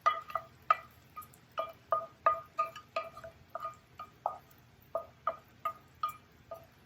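A metal utensil clinking again and again against a ringing metal pan, about twenty quick, uneven strikes that all ring at the same pitch.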